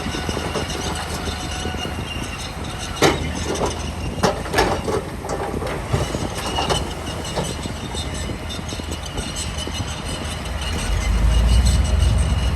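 Crawler bulldozer's diesel engine running steadily, with sharp metallic clanks and squeals from its tracks a few seconds in. The engine gets louder near the end.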